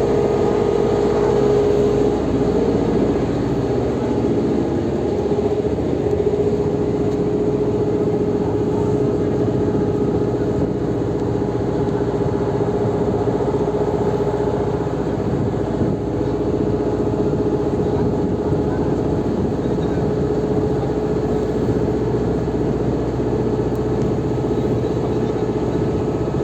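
Engine of a river ferry boat running steadily, a constant droning hum.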